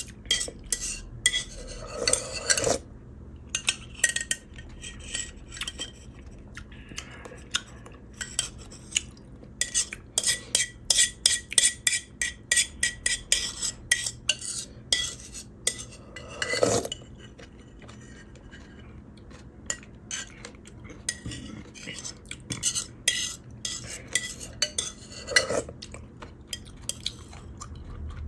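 Eating utensils clinking and scraping against a clay pot, many quick clicks, densest about halfway through, with a few fuller knocks.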